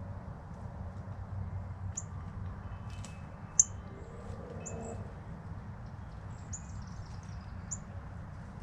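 Short, high bird chirps, five or six scattered single notes, one sharper and louder a little before the middle, over a steady low outdoor rumble.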